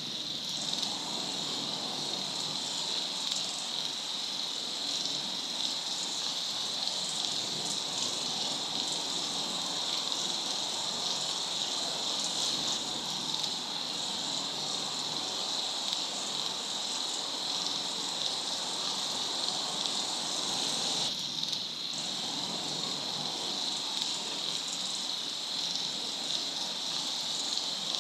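Waterfall: a steady rush of falling water, with a constant high hiss on top, dipping briefly about three-quarters of the way through.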